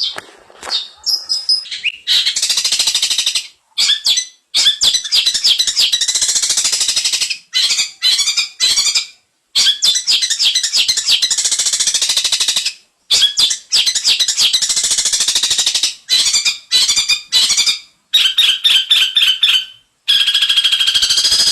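Long-tailed shrike (cendet) singing a loud, rapid rattling chatter of fast high notes, in phrases broken by short pauses.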